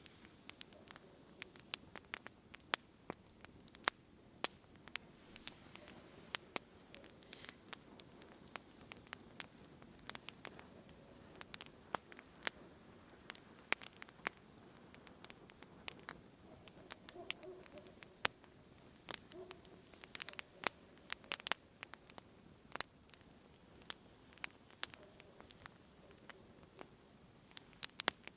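Falling snow and ice pattering on tent fabric: irregular light ticks and taps over a faint steady hiss.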